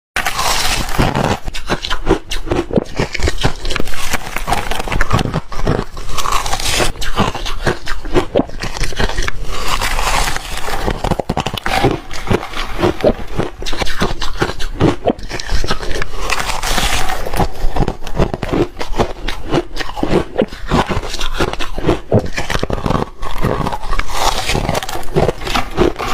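Close-miked chewing of reshaved refrigerator ice: a rapid, continuous run of crunches and scraping mouth noises.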